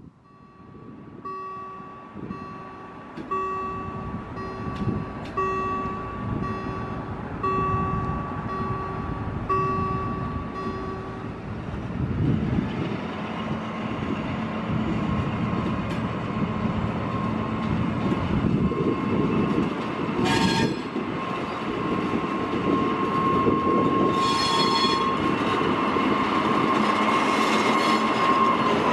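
A warning bell dings about once a second for the first ten seconds or so, then stops. A V100-class diesel-hydraulic locomotive then comes up and passes close with a loaded train of hopper wagons, its engine growing louder while the wheels squeal in a steady high tone.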